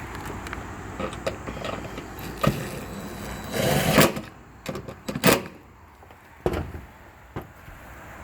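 Knocks and taps on a metal roof panel as roofing screws are worked, with a short whirring burst of a cordless drill about three and a half seconds in. Several sharp clanks follow in the second half.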